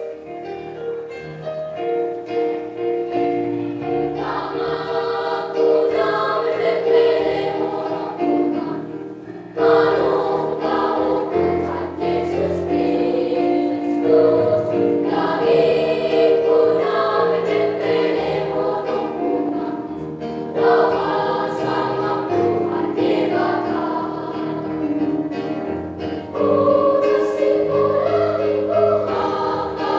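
A children's Sunday school choir singing a hymn-style song together, with keyboard accompaniment.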